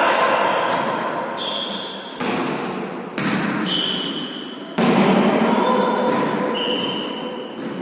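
A volleyball being struck and bouncing on a hard court floor in a reverberant sports hall: about four sharp hits, each with a ringing echo, with short high squeaks between them.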